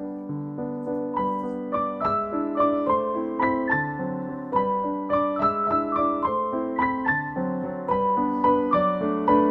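Background piano music: a gentle melody of single notes, about three a second, over held lower notes.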